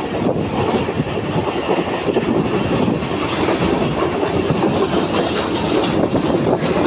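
Moving passenger train heard from inside the carriage: a steady rumble with the wheels clattering over the rail joints.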